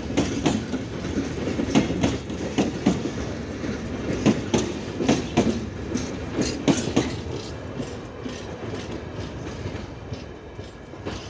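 Freight train of covered hopper wagons rolling past, the wheels clacking sharply and repeatedly over rail joints over a steady rumble. The clacks thin out and the sound fades near the end as the last wagons pass.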